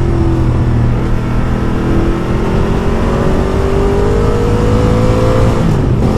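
Ducati Multistrada motorcycle engine pulling under steady acceleration, its pitch climbing slowly for about five seconds and then dropping sharply near the end, over a constant rumble of wind and road noise.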